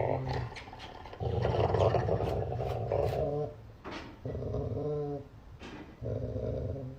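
A dog growling in long, rough growls, three of them with short breaks between, the first about two seconds long.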